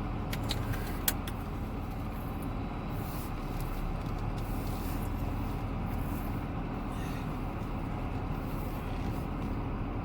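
Steady car engine and road noise with a low hum, and a few sharp clicks in the first second or so.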